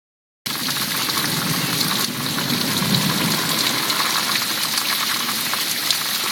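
Heavy downpour of rain: a steady hiss dense with fine pattering drops, with a slight low rumble near the middle. It begins after a dead-silent dropout of about half a second.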